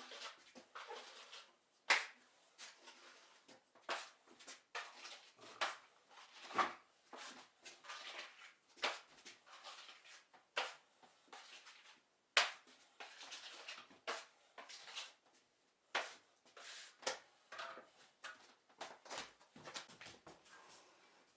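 Irregular rustling, scraping and light knocks of hand renovation work in a small room, with a sharper knock every few seconds.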